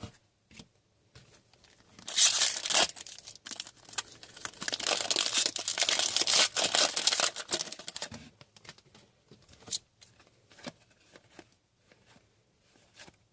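A foil trading-card pack wrapper being torn open and crinkled. There is a short rip about two seconds in, then a longer stretch of crinkling and tearing until about eight seconds in, with light clicks and rustles of cards being handled before and after.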